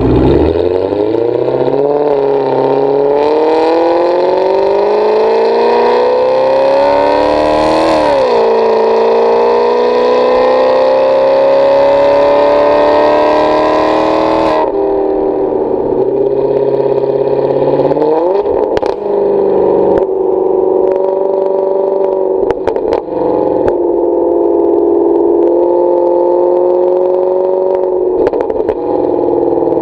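Maserati Quattroporte V8 through a Kreissieg valved exhaust, accelerating hard: the engine note climbs, drops sharply at an upshift about eight seconds in, and climbs again. About halfway it lifts off and settles into a steadier, lower engine note, with a few sharp cracks near the middle of that stretch.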